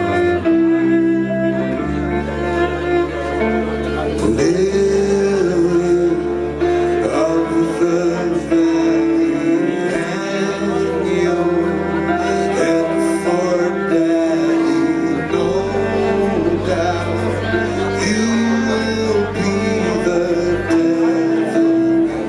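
Live band playing an instrumental passage: held melodic notes over a moving bass line, with a sliding note about four seconds in.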